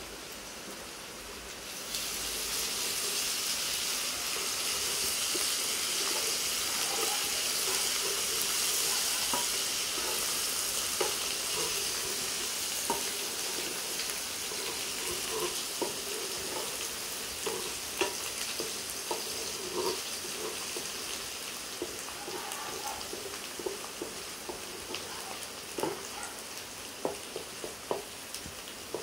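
Chopped onions frying in hot oil in a metal saucepan, sizzling steadily. The sizzle gets louder about two seconds in. A wooden spoon stirs them, knocking against the pan now and then.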